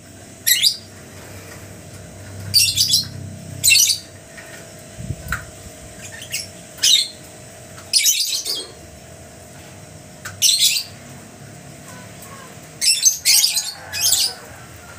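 Lovebird giving short, harsh, shrill calls, about ten in all at irregular intervals of one to three seconds, a few in quick pairs.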